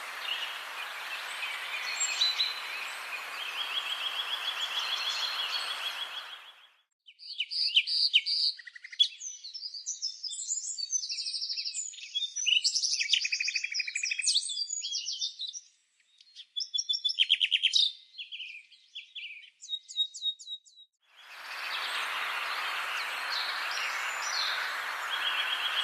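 Wild songbirds singing. At first and near the end, a repeated trill and scattered chirps sit over a steady hiss. For most of the middle the hiss cuts out abruptly, leaving a clean stretch of rapid, varied, complex birdsong broken by a few brief pauses.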